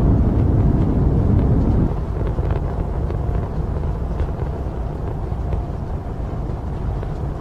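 Rocket engines making a deep, noisy rumble with faint crackling in it. The rumble drops noticeably about two seconds in and then carries on steadily at the lower level.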